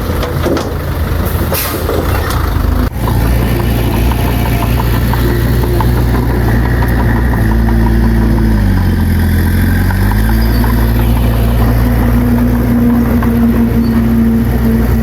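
Heavy earthmoving machine's diesel engine running steadily, its pitch sagging and recovering about nine seconds in. A few knocks are heard in the first three seconds.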